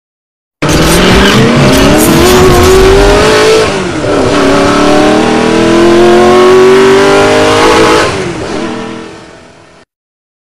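Car engine accelerating hard, its pitch climbing steadily, dropping at a gear change about three and a half seconds in, then climbing again before fading out near the end.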